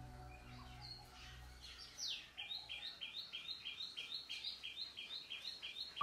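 A small bird calling: a single falling note, then a rapid run of repeated two-part chirps, about four a second.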